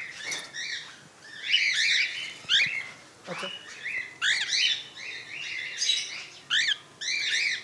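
Cockatiels chirping: a quick string of short, arching calls, several overlapping, with the loudest about one and a half to two and a half seconds in.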